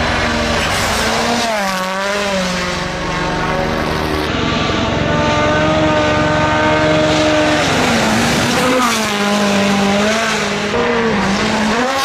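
Rally car engine revving hard, its pitch dipping and climbing again several times as it changes gear and holding steady for a few seconds in the middle.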